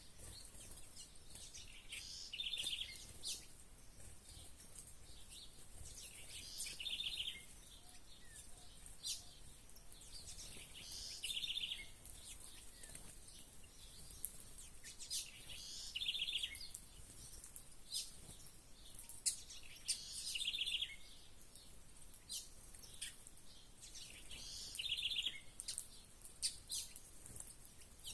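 A songbird repeats the same short phrase six times, about every four to five seconds, each ending in a quick, rapid trill. Scattered short, high chirps from other birds run between the phrases.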